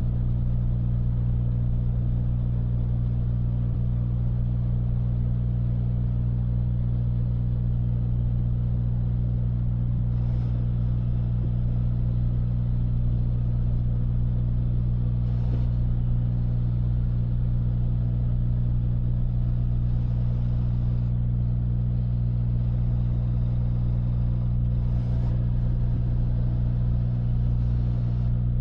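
Freightliner semi-truck's diesel engine running steadily, heard inside the cab as a constant low drone while the truck drives at an even pace.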